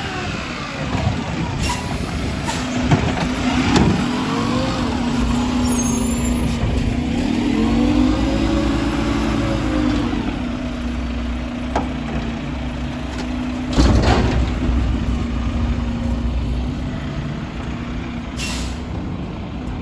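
Mack LR garbage truck's engine running, revving up and back down between about six and ten seconds in. Sharp air-brake hisses come about four, fourteen and eighteen seconds in.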